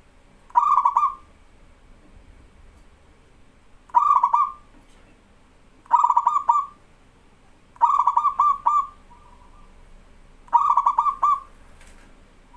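Zebra dove (perkutut) cooing: five short phrases a couple of seconds apart, each a quick stuttering run of clipped coo notes at about one pitch.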